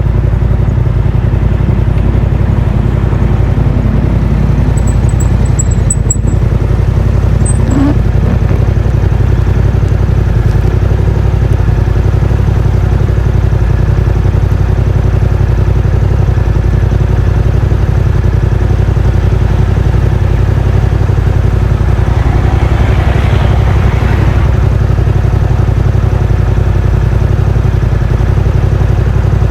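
Yamaha MT-07's 689 cc parallel-twin engine running at a steady, even engine speed through a Yoshimura R77 exhaust with its dB killer fitted.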